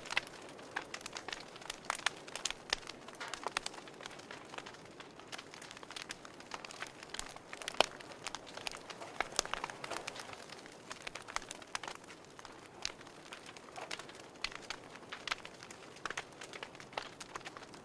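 Wood fire crackling in a fireplace: irregular sharp pops and snaps, several a second and varying in strength, over a soft steady hiss of burning.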